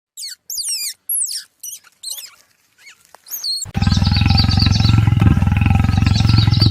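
Animal calls: a run of short, high-pitched squeaks that fall in pitch, then, about three and a half seconds in, a loud, low, rapidly pulsing growl with faint high chirps above it.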